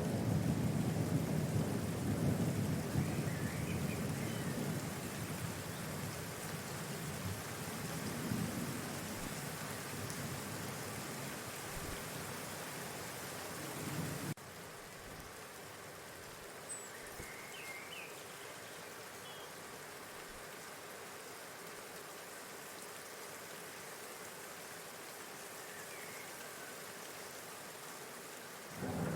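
Steady rushing outdoor noise with a low rumble, with a few faint short bird calls now and then. About halfway through the level drops suddenly and the rumble falls away, leaving a quieter, even hiss.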